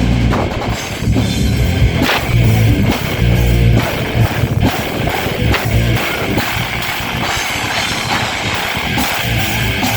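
Live heavy metal band playing: distorted electric guitars, bass and a pounding drum kit, heard as a concert recording.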